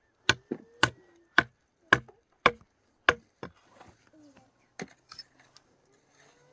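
Repeated sharp chopping or pounding blows from a hand tool, about two a second, stopping a little over three seconds in; a single further knock comes near the five-second mark.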